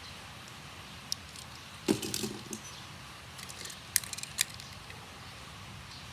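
Light clicks and small clinks of diecast toy cars being handled, in a few scattered groups: one click a little after a second in, a cluster about two seconds in, and another around four seconds, over a steady faint hiss.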